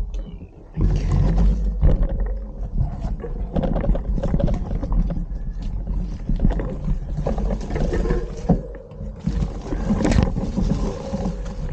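Wind buffeting the microphone of a moving bicycle rider, a rough low rumble that swells and eases, with scattered small clicks.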